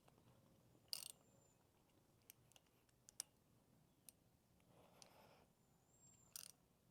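Near silence broken by a few faint, scattered clicks and light taps; the loudest comes about a second in.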